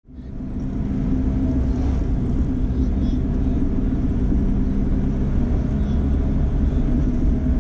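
Datsun 240Z engine running at a steady cruise, heard from inside the cabin with road rumble underneath. It fades in over about the first second and then holds an even drone.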